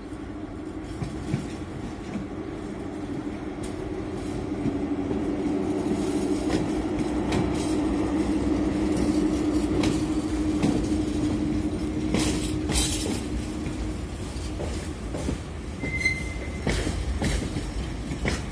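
A train passing by. A steady hum swells and then fades as it goes past, with wheels clicking over rail joints and a brief high wheel squeal near the end.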